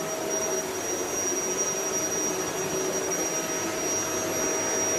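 Vacuum cleaner running steadily: an even rushing of air with a constant high-pitched whine from the motor.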